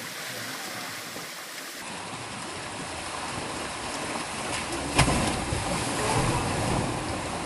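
Water rushing steadily down a waterfall slide, with one sharp impact about five seconds in, after which the rush grows fuller.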